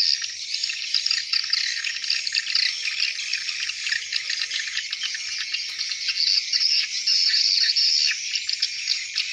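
A dense, steady chorus of swiftlet twittering: many rapid, overlapping high chirps.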